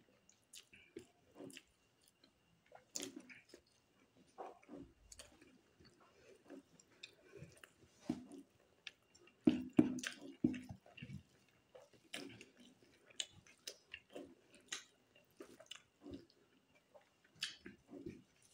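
Close-miked chewing of a mouthful of rice and pork curry: wet smacks and clicks at an irregular pace, loudest about halfway through.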